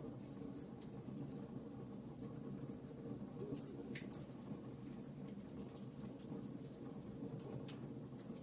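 Wood fire burning in a fireplace: a steady low hiss of flame with frequent small, sharp crackles and pops at irregular moments, one stronger pop about four seconds in.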